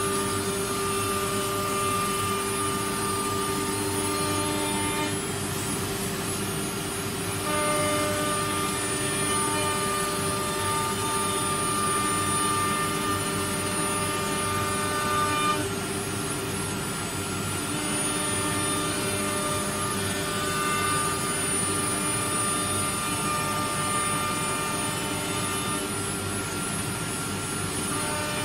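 CNC router with a disk-carousel tool changer running: a steady whine from its spindle and drive motors. The mix of tones shifts a few times as the machine works, about 5, 7.5 and 15 seconds in.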